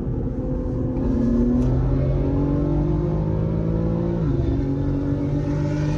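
BMW M140i's stage-one-tuned B58 turbocharged straight-six accelerating hard, heard from inside the cabin. The engine note rises steadily, drops with an upshift about four seconds in, then climbs again.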